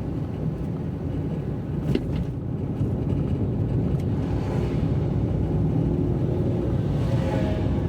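Steady low road rumble of a car being driven on a wet road, heard from inside the car. There is a sharp click about two seconds in, and a higher hiss swells twice.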